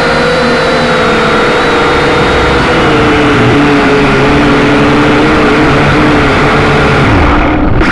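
Quadcopter drone's electric motors and propellers whining steadily, several pitches wavering and shifting slightly as the motors change speed, over a rush of noise. The sound turns dull and muffled for a moment near the end.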